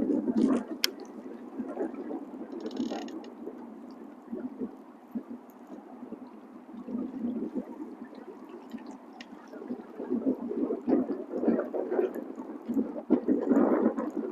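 Water lapping and gurgling against the side of a fishing boat, in irregular surges that rise and fall.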